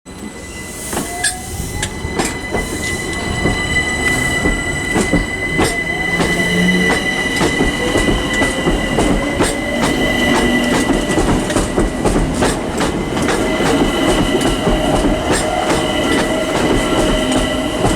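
Electric multiple-unit train pulling away: a motor whine rising in pitch over a steady high squeal from the wheels, with wheels clicking over rail joints throughout.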